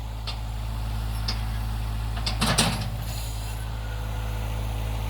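Tractor engine running steadily, a low even drone, with a few light clicks and a short clatter about two and a half seconds in.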